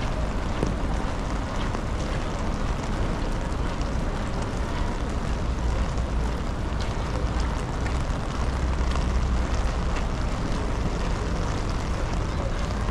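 Heavy rain falling on wet paving, with wind rumbling on the microphone and scattered sharp ticks. The low rumble swells for a few seconds past the middle.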